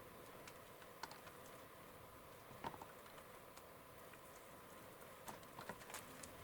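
Faint, scattered light clicks and taps over a faint steady hum, with a sharper click about a second in, another near three seconds and a small cluster in the last second and a half.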